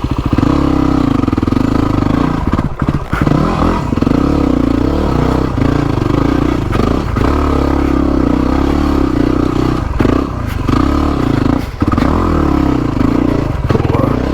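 Yamaha WR250R's 250 cc single-cylinder four-stroke engine working hard up a steep, slippery dirt hill, the throttle opening and easing off every second or two. Knocks and scraping clatter from the bike over the rough ground.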